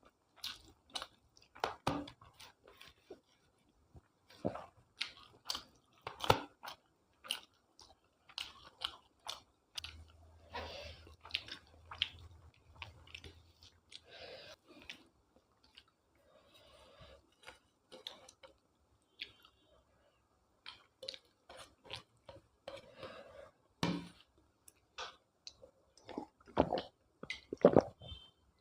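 A person chewing food close to the microphone, with irregular crunches and mouth clicks.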